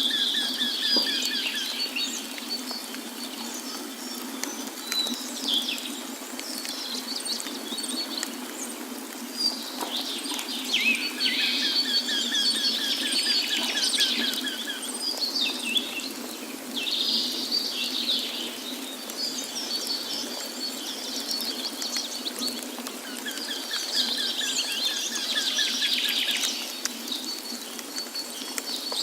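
Songbirds singing in the forest: a song phrase with a lower trill comes back three times, at the start, about halfway and near the end, with other chirps between. Under the birds runs a steady rush of falling water.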